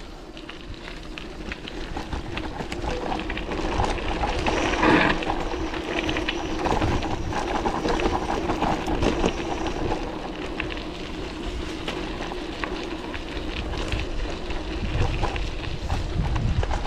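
Mountain bike riding noise on a muddy trail: tyre and drivetrain rattle with scattered clicks and wind on the microphone, under a steady low hum. It grows louder over the first few seconds.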